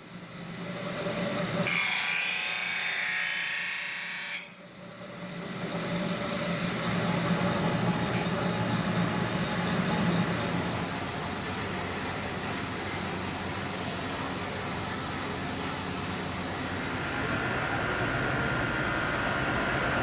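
A power tool running steadily while it works steel knife blades. The sound breaks off and changes abruptly twice in the first five seconds, and a steady whine joins it near the end.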